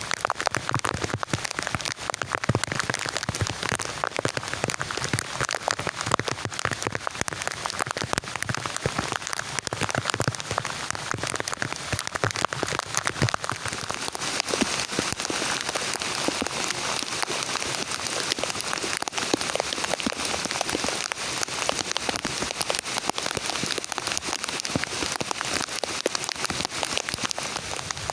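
Heavy rain falling, with many separate drops striking close by, steady throughout and a little brighter in tone from about halfway through.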